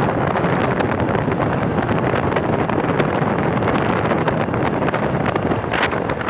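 Steady wind noise buffeting the microphone of a bass boat under way, mixed with the boat's motor running.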